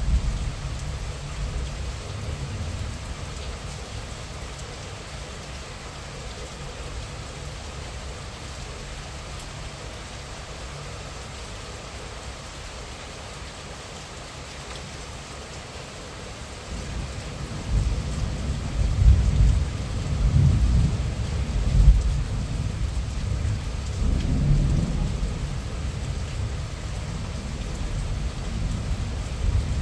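Moderate rain falling steadily, picked up by a mobile phone's microphone. A low rumble underneath dies down in the first few seconds and comes back louder in uneven surges from a little past halfway.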